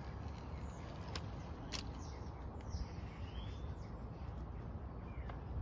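Outdoor background rumble with a few short bird chirps, including one rising-and-falling call about three seconds in.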